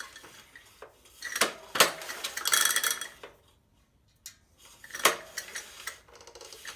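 Scattered metallic clicks and clinks, with a short rasp in the middle, from a Honda 200cc small engine with its cylinder head off being turned over by hand to check the valves.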